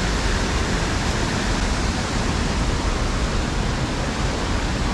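Water from a reservoir spillway rushing steadily through a shallow, fast creek, a continuous even rush with no breaks.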